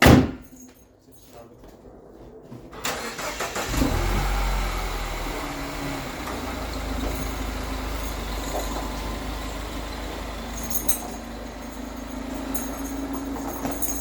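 A sharp knock, then a vehicle engine cranking and catching about four seconds in, after which it runs steadily at idle.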